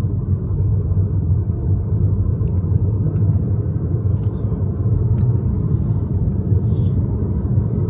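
Car driving on the road: a steady low rumble of tyre and engine noise.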